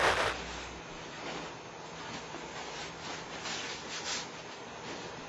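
Steady hiss with a few soft rustles, like handling noise on a camcorder microphone.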